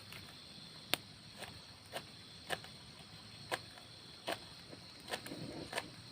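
Insects chirring steadily in a high, even drone, with sharp taps at a fairly even pace of roughly one every half second to a second.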